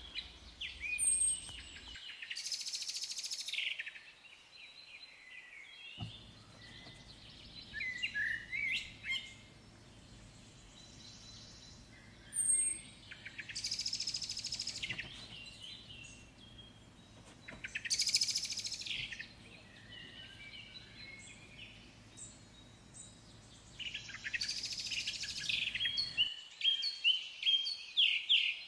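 Birds chirping and singing, with high trilling phrases that come in bursts every few seconds.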